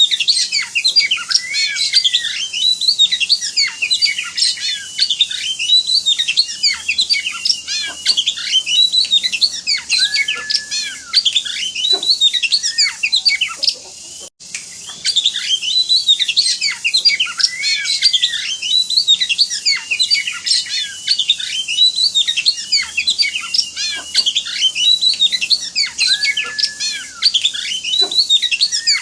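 Oriental magpie-robin (kacer) singing an excited, dense run of fast chirps, trills and whistled notes. The song is a looped masteran recording: it breaks off briefly about halfway through and the same passage starts over.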